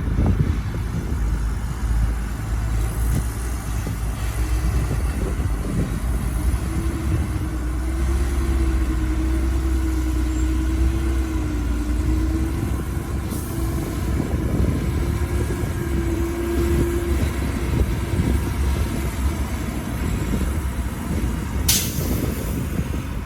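Heavy diesel earthmoving machinery running steadily, a deep continuous rumble. A steady whine rides over it for several seconds in the middle, and a short sharp hiss comes near the end.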